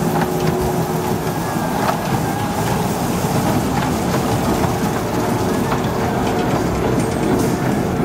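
Small kiddie-ride train rolling past on its narrow-gauge track, with a steady rumble and its wheels clicking now and then over the rail joints.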